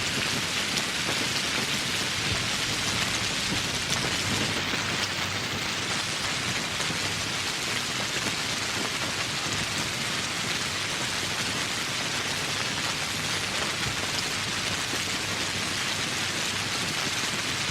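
Steady rain falling: an even, dense hiss of many drops that holds level throughout.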